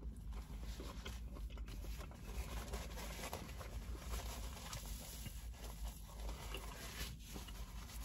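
A person chewing a mouthful of burger, with soft irregular mouth sounds over a low steady hum.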